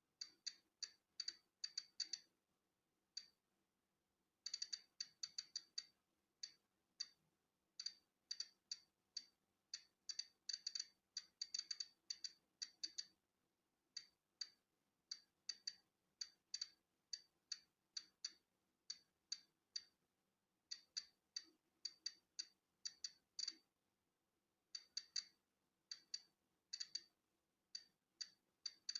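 Polon EKO-C digital Geiger counter clicking irregularly: short, sharp, high clicks, about two a second on average, arriving in random clusters with brief pauses between. Each click marks a particle of natural background radiation being counted.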